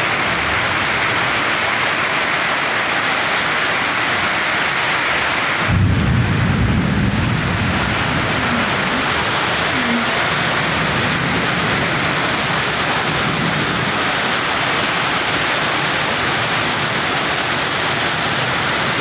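Heavy rain pouring steadily in a thunderstorm, with a low rumble of thunder about six seconds in.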